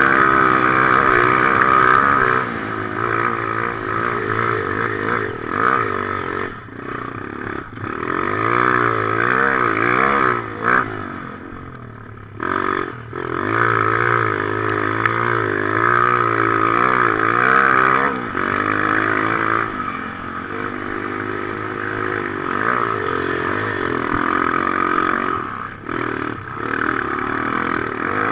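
Motocross bike engines revving hard, their pitch rising and falling again and again as they race, with a short lull about twelve seconds in.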